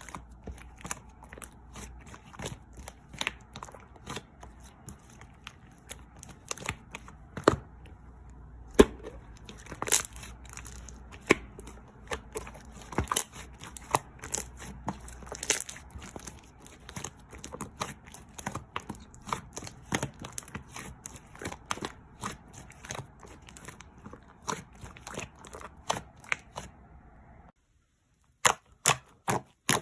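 Slime being played with, giving irregular sharp sticky clicks and pops. The sound drops out briefly near the end before the pops start again.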